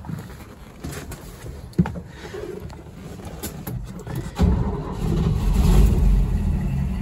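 1970 Toyota FJ40 Land Cruiser's 3.9-litre F straight-six starting from cold: a sharp click near two seconds in, then the engine catches suddenly about four and a half seconds in and runs with a steady low rumble, swelling briefly before holding at a fast idle.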